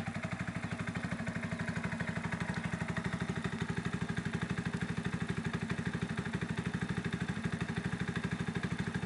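Customised Honda underbone motorcycle's single-cylinder four-stroke engine idling through an aftermarket chrome exhaust, with a steady, even run of exhaust pulses.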